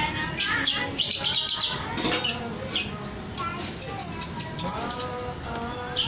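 Small birds chirping: quick, high, repeated chirps through the whole stretch.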